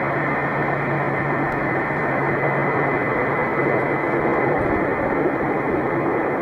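Jet airliner engines running at high power: a steady, loud roar with a thin, high whine held on top.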